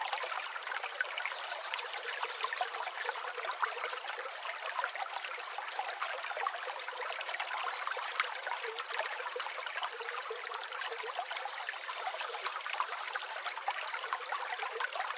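River water flowing and trickling steadily: a dense, even patter of small splashes, with no deep rumble underneath.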